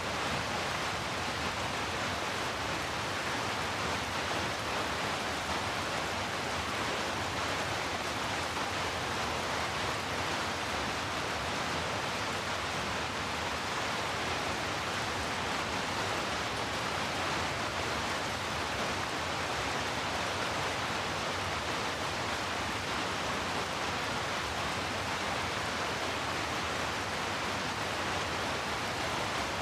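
Steady rain making an even, unbroken hiss, with no separate drops or thunder standing out.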